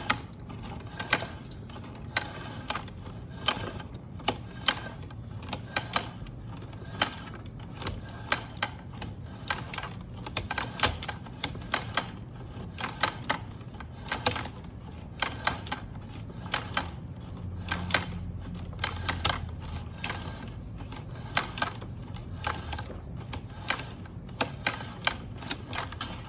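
Sewer inspection camera's push cable being run back through the line, with irregular sharp clicks over a steady low hum.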